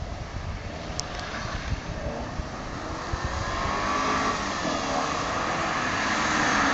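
Mercedes-Benz AMG coupe driving toward the listener under acceleration. Its engine note rises and falls in pitch and grows steadily louder as it approaches.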